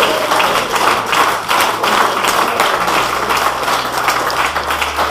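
A small audience applauding, many people clapping their hands together in a dense, continuous patter.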